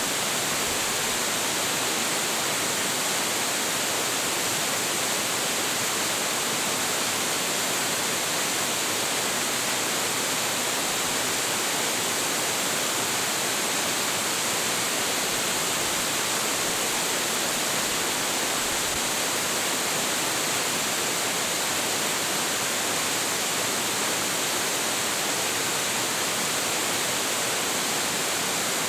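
Large waterfall plunging into its pool: a steady, unbroken rush of falling water.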